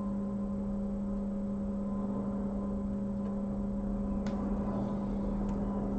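A steady electrical hum with a constant low pitch, with two faint clicks near the end.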